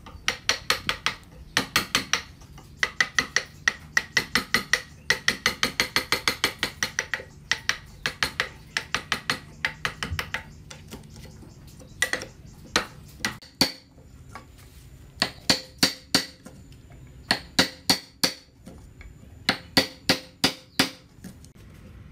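Hammer striking over and over, each blow sharp with a short ringing note: quick runs of about four strokes a second for the first half, then short groups of three or four blows with pauses between them.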